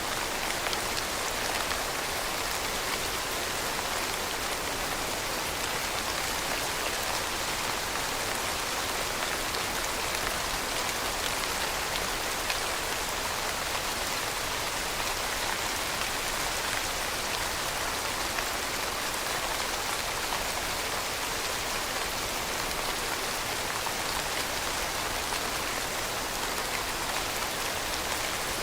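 Steady rain falling and pattering on surfaces: an even hiss with scattered individual drops.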